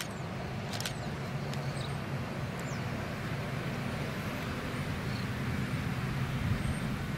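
Diesel locomotives of a slow freight train moving away, a steady low engine drone with the noise of wheels rolling on the rails. Two sharp clicks come in the first second.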